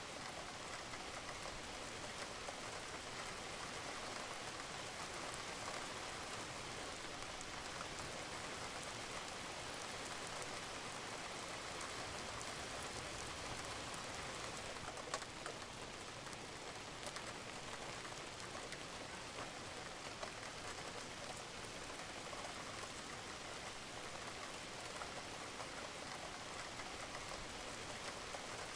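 Steady rain falling on a roof, a dense even patter with scattered individual drops ticking, one sharper drop about halfway through.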